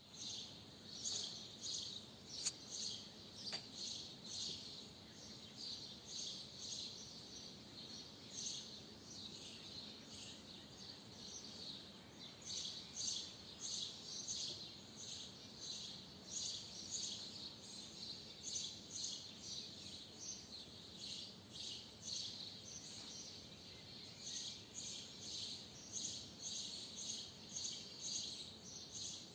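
Swallows twittering: a dense, unbroken run of short high chirps from many birds, over a steady low background hum. A single sharp click about two and a half seconds in.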